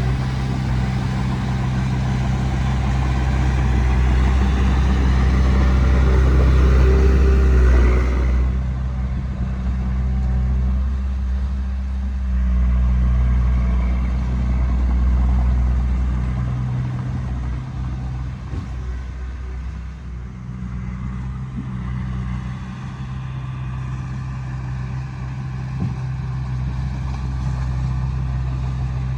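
Small bulldozer's diesel engine running under load, rising to a peak about eight seconds in, then dropping off suddenly and running on at a lower, varying level.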